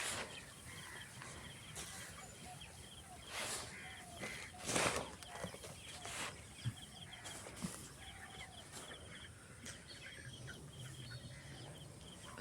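A flock of 25-day-old broiler chickens peeping and clucking, with a high repeated peeping running through and a few short rustling bursts.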